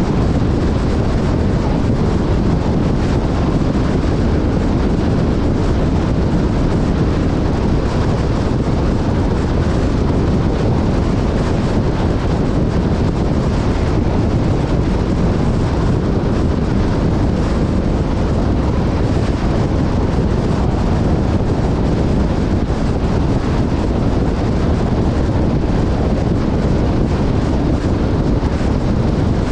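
Steady rush of wind buffeting the microphone, with a vehicle's low drone underneath and no change throughout.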